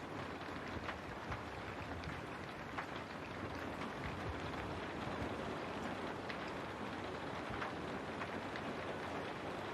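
Steady rain falling on a window, an even hiss with scattered individual drop ticks.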